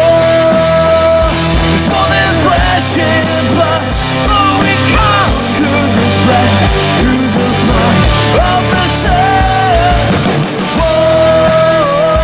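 Rock band playing live at full volume: drum kit, bass and distorted electric guitars, with a high melody line holding long notes and bending between them.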